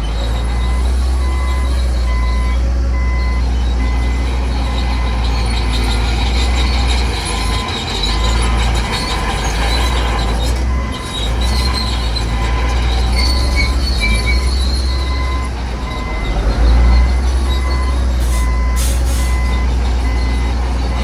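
Heavy earthmoving machinery at work: a deep diesel rumble with squealing metal, a reversing alarm beeping steadily, and a couple of sharp clanks near the end.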